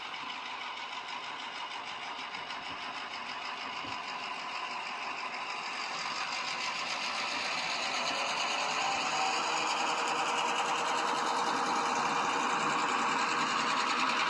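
Model train running on the layout track: a steady small-motor whir with fine rapid ticking, growing gradually louder as it approaches.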